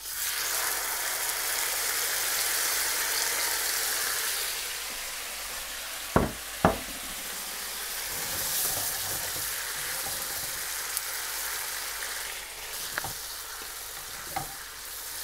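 Marinated prawns and their liquid marinade sizzling hard in a very hot, preheated pan, the frying starting all at once as they go in and easing a little after about four seconds. Two sharp knocks about six seconds in, and a few lighter clicks near the end.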